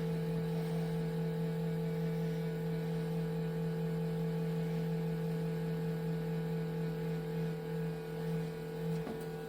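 Ninja Foodi XL Pro Air Oven running while cooking: a steady electric hum from its convection fan motor over a faint rush of moving air, with a light click near the end.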